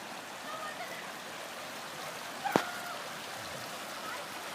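River water running steadily over a shallow bed, with a single sharp click about two and a half seconds in.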